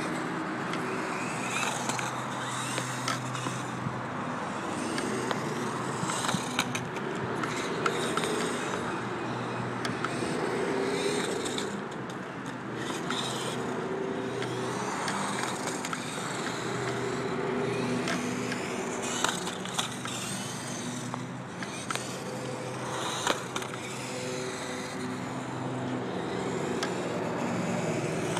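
1/24-scale Redcat Sumo RC monster truck driving on asphalt: its small motor whines, rising and falling in pitch as it is throttled, over the rolling and scraping of its tyres on the pavement. A few sharp clacks come from the truck landing or knocking on the ground.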